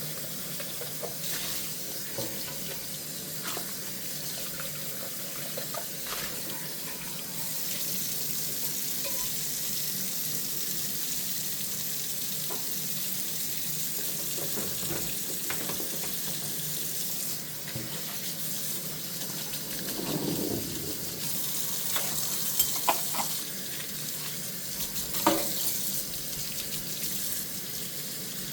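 Kitchen tap running steadily into a sink during hand dishwashing, the flow getting louder about a quarter of the way in. Scattered clinks of dishes knocking together, a few sharper ones in the last third.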